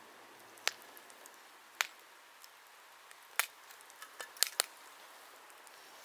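Wood fire crackling: scattered sharp pops of burning wood over a faint hiss, with a quick run of three pops about four seconds in.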